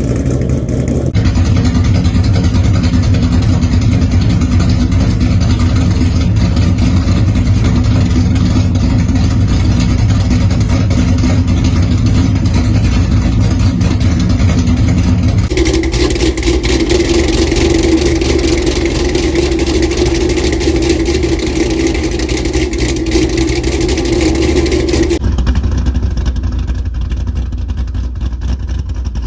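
Ford Mustang GT's 5.0-litre V8 running through its exhaust with a ghost cam tune, an engine tune that gives the idle the choppy sound of an aggressive camshaft. The engine sound stays fairly steady but changes character abruptly twice, as between separate recordings.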